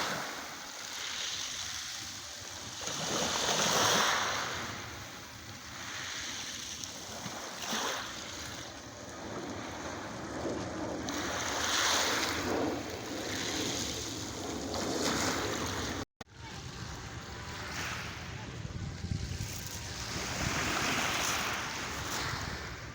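Black Sea waves breaking on the shore, each swelling and washing back about every four seconds, with a brief cut-out of the sound about two-thirds of the way through.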